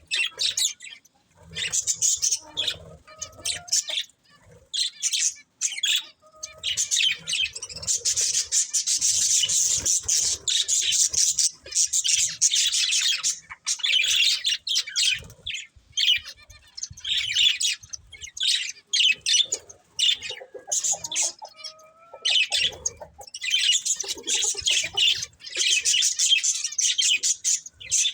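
Budgerigars chattering and chirping: rapid high warbling runs of a few seconds, with short pauses between them.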